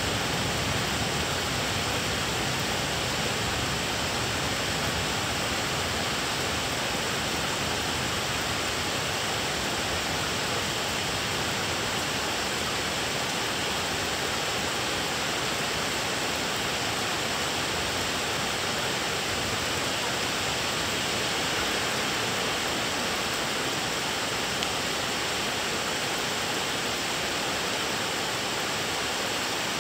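Thunderstorm rain falling steadily: a constant, even hiss with no thunderclap.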